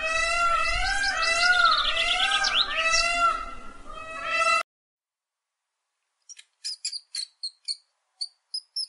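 Peacock (Indian peafowl) calling: a fast run of rising-and-falling, meow-like notes, about three a second, cut off suddenly about four and a half seconds in. After a short silence, a pet rat gives a string of short, high-pitched squeaks and ticks.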